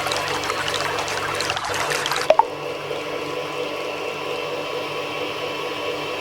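Water pouring and splashing, with a faint steady hum underneath. About two seconds in a sharp click comes and the splashing drops to a quieter, steady flow, the hum still going.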